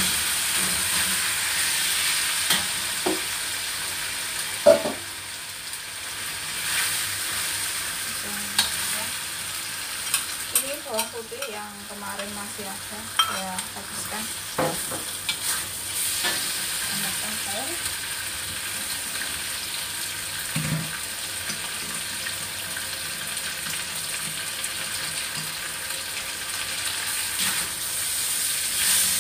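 Pomelo-peel pieces frying in oil in a wok, a steady sizzle, with a metal spatula scraping and clicking against the wok as they are stirred.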